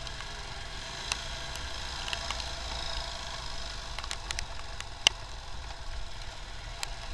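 Steady low rumble of a motorcycle riding in rain, with scattered sharp ticks and crackles of raindrops hitting the camera; one louder sharp click about five seconds in.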